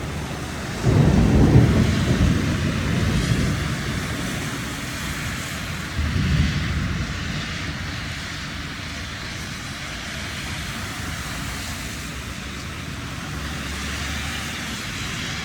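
Heavy rain falling steadily, with a low rumble of thunder about a second in that fades over a few seconds, and a second, shorter rumble at about six seconds.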